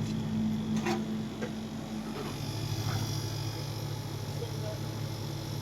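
Homemade dehumidifier running with a steady low hum that shifts down in pitch about two seconds in, with a few faint clicks.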